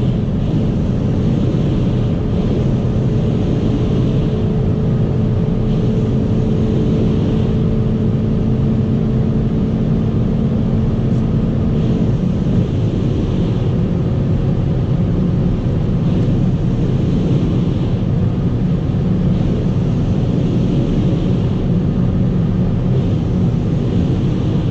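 Hyundai i30 N's turbocharged four-cylinder heard from inside the cabin at full throttle near its top speed, holding a steady high-revving note under heavy wind and road roar. About halfway through the note drops as the driver shifts up a gear, then holds steady while speed creeps up.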